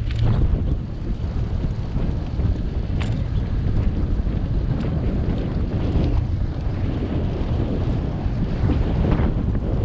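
Wind buffeting the microphone of a moving bicycle, a steady low rumble with a few faint ticks.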